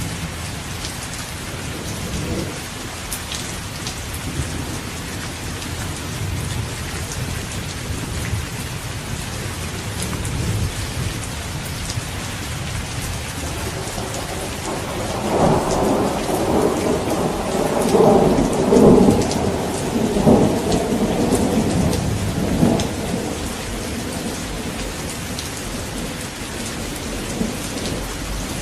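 Steady rain falling, with low thunder rumbling underneath. About halfway through, a louder peal of thunder crackles and rumbles for several seconds, then fades back into the rain.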